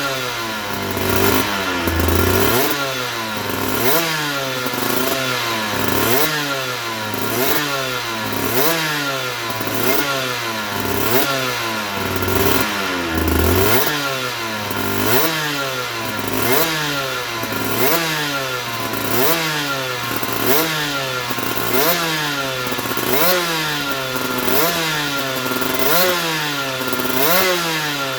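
A 2008 Aprilia RS125's 125 cc single-cylinder two-stroke engine being revved in repeated throttle blips, about one a second, its pitch rising and dropping back each time.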